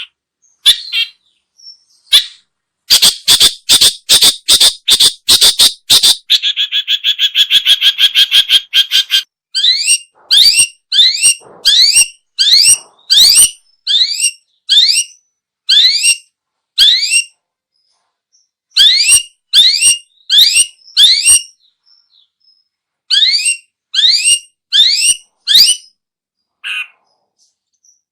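Long-tailed shrike (pentet/cendet) calling. A quick run of harsh notes about three seconds in leads into a fast rattling chatter. After that comes a long series of sharp rising whistled notes, about one and a half a second, broken by brief pauses.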